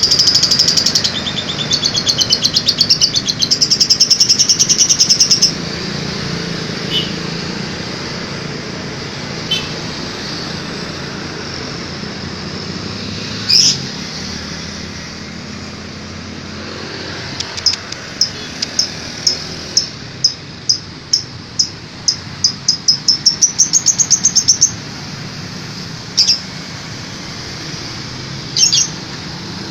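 Lovebird singing its 'kekean' chatter: long runs of rapid, high chirps. One run opens the sound, a second builds faster and rises in pitch about two-thirds through, and single chirps fall between.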